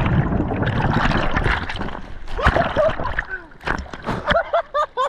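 Seawater splashing and gurgling right at a GoPro's housing in the surf: a rush of water for the first couple of seconds, then choppy splats and short bubbly blips.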